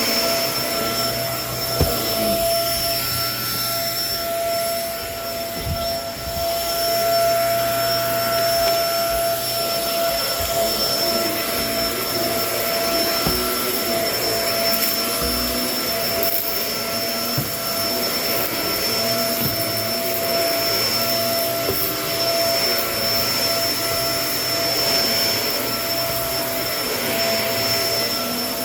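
Kenmore vacuum cleaner running steadily with a constant whine, with scattered small ticks and a brief knock about two seconds in, typical of debris being picked up.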